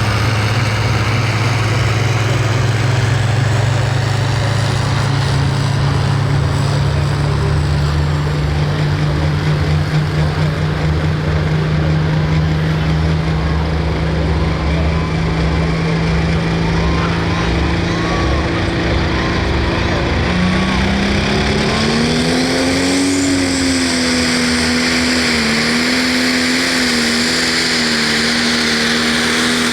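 Pro stock pulling tractor's turbocharged 680 cubic inch diesel engine running steadily at low revs, then revving up about two-thirds of the way through and holding high revs with a slight waver.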